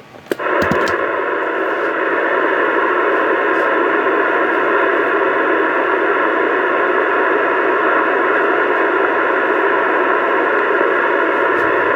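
CB radio speaker giving a steady rush of static that starts sharply just after the beginning and cuts off abruptly at the end. It is an incoming transmission held keyed without speech, a carrier check during a range and tune-up test.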